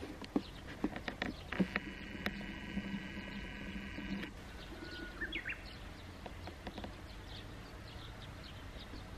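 Faint outdoor ambience with scattered bird chirps and a short rising call about five seconds in. A steady buzz sounds from about a second and a half in until about four seconds in.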